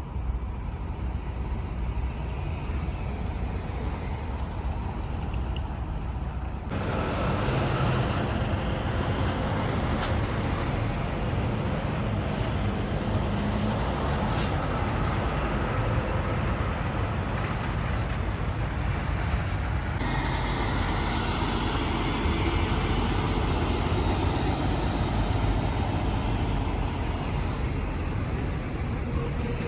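Semi trucks and highway traffic running past, a steady road noise of engines and tyres. The sound changes abruptly about 7 seconds in and again about 20 seconds in, as one roadside recording cuts to the next.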